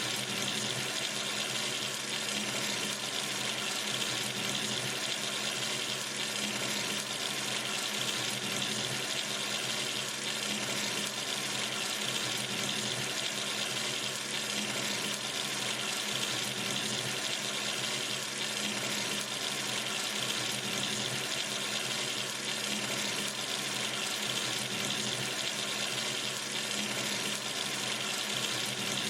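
Water running steadily from a sink tap, an even, unchanging splashing flow.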